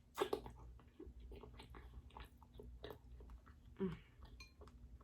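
Close-miked chewing of king crab meat, with a run of small wet mouth clicks and crackles, loudest just after the start. A brief low vocal sound about four seconds in.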